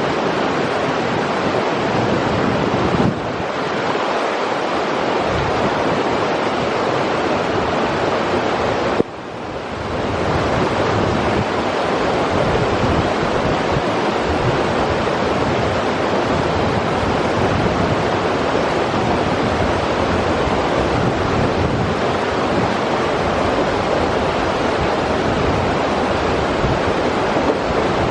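River water rushing steadily. The sound drops suddenly about 3 seconds in and again about 9 seconds in, coming back up within a second or so each time.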